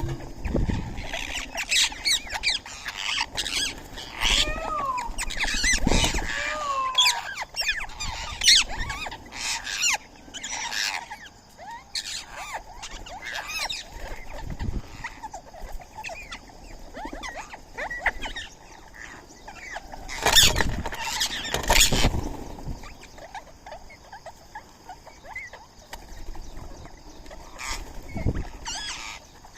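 Birds chirping and calling in many short, sharp notes, with two falling whistled calls early on and a loud flurry of calls about two-thirds of the way through.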